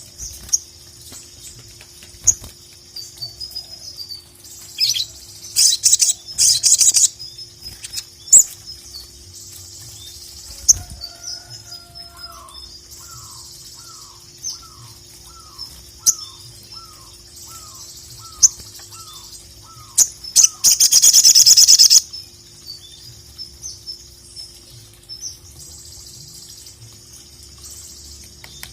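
Sogon (ruby-cheeked sunbird) singing in fast, high chirping trills, broken by loud harsh rasping bursts about 6 seconds in and again near 21 seconds. A lower, short falling note repeats about twice a second from about 12 to 20 seconds.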